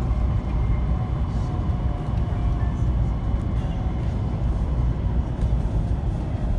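Steady low rumble inside a Taiwan High Speed Rail carriage as the train runs.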